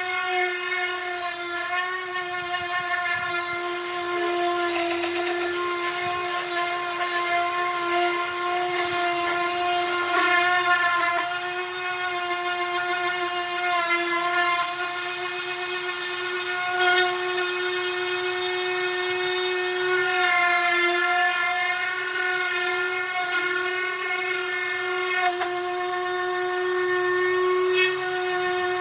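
Electric power sander running on wood, a steady motor whine whose pitch wavers slightly as it is worked across the surface.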